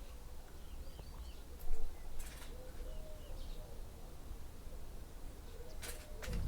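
Outdoor countryside ambience with small birds chirping faintly, over a low steady rumble. A brief louder bump comes about two seconds in, and there are short rustles near the end.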